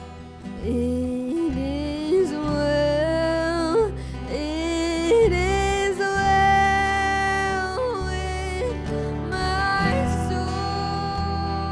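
Worship band music: a melody line slides between long held notes over a steady bass and acoustic guitar.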